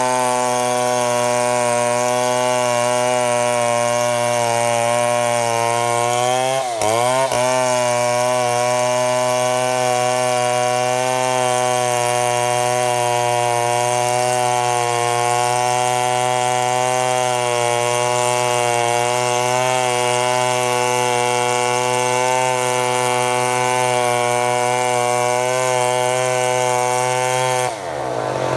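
Chainsaw running at steady high revs under load, ripping lengthwise through a mahogany log to mill lumber. Its pitch dips briefly about seven seconds in and recovers, and the sound changes abruptly near the end.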